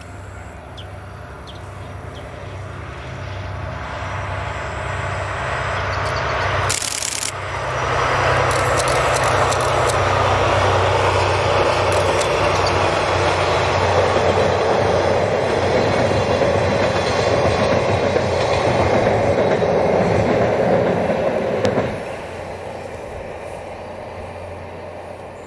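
A train passing: the DE10 diesel-hydraulic locomotive's engine running as it approaches, then 12 series and 14 series passenger coaches rolling by with wheels clicking over the rail joints. There is a brief hiss about seven seconds in. The rumble builds, holds, and drops off sharply about 22 seconds in as the last coach goes by.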